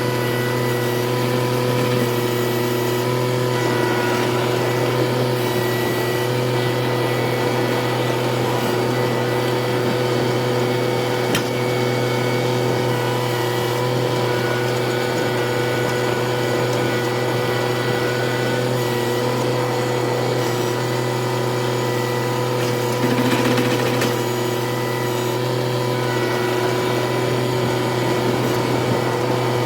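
Tractor engine running steadily at a constant speed, an even mechanical hum with a few steady tones over it.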